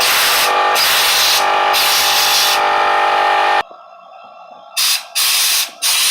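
Ridgid 18V brushless cordless air compressor running with a whine while compressed air hisses from the blow nozzle, blowing dust out of air conditioner coils. The motor stops abruptly about three and a half seconds in. Then come three short blasts of air from the nozzle.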